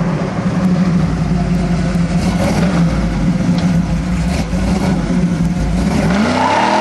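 Rebuilt 427 big-block V8 in a 1967 Chevy Camaro running loudly at a steady speed, then revving up sharply about six seconds in.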